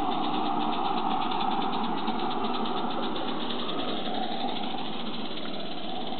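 Accucraft model of the steam locomotive Mannin running, its exhaust beating in a fast even rhythm over a steady hiss; the beats fade after about four seconds.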